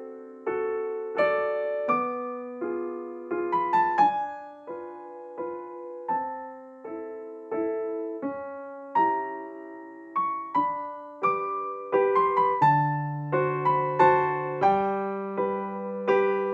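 Background music: a gentle piano or electric piano melody of single notes and soft chords, each note struck and fading.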